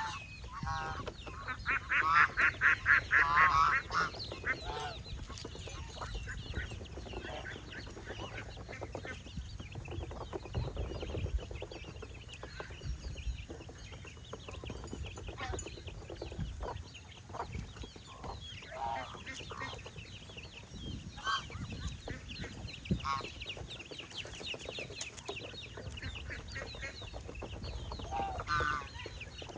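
Farmyard poultry clucking and calling, with a loud run of about ten quick calls about two seconds in, then scattered shorter calls.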